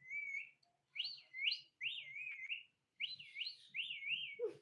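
Pet parrot whistling a run of short rising-and-falling whistles, about two a second, in short groups with brief pauses between them.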